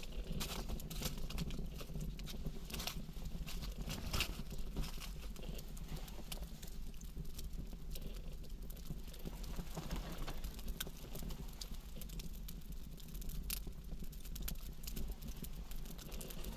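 Wood campfire burning, crackling and popping in irregular sharp snaps over a steady low rumble.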